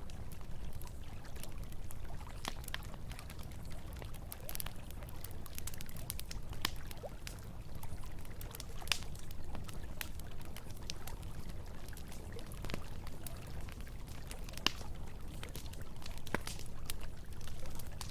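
Campfire crackling with scattered sharp pops over the steady rush of flowing river water.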